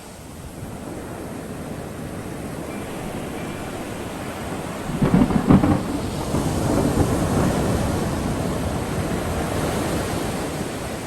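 Thunderstorm with steady rain, and thunder rumbling that builds to a loud crack of thunder about five seconds in. The thunder then keeps rolling for several seconds before it eases off near the end.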